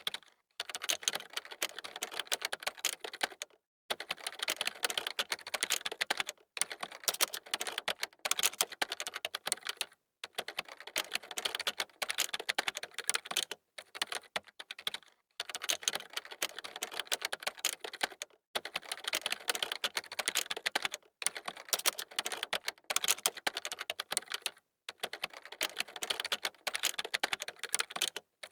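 Fast typing on a computer keyboard: quick runs of key clicks, broken every few seconds by brief pauses.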